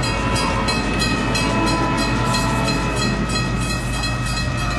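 A train running: rhythmic clattering about three to four times a second over steady sustained tones.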